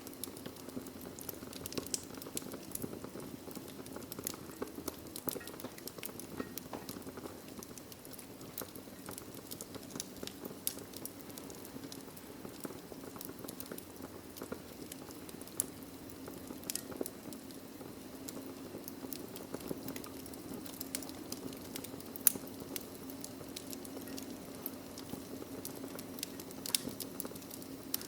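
Wood logs burning in a fireplace: irregular small crackles and pops over a steady low rush of the flames, with one sharper pop about three-quarters of the way through.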